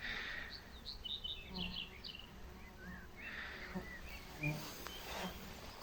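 Quiet outdoor ambience with faint high bird chirps, a cluster of them in the first two seconds and a few lower ones later, over a few soft low sounds.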